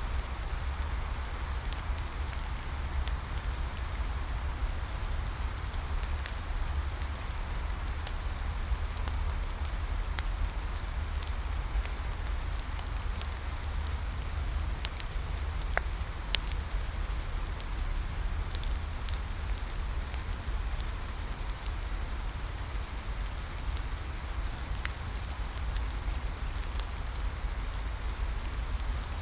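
Steady rain falling, mixed with a bonfire crackling in scattered sharp pops and snaps.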